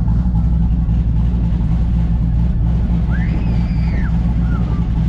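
A car engine idling with a steady low hum. About three seconds in there is a brief rising-then-falling higher tone.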